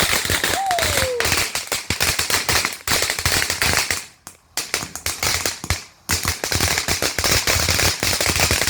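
A string of firecrackers going off: loud, rapid bangs in quick succession, with a short falling whistle about half a second in and a brief lull about four seconds in before the popping resumes.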